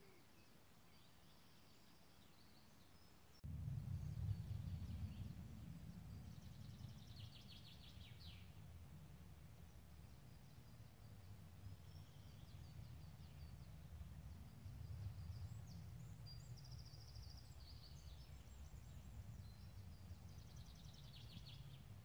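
Faint songbirds singing, with a few short trills. About three and a half seconds in, a low, uneven rumble starts abruptly and becomes the loudest sound.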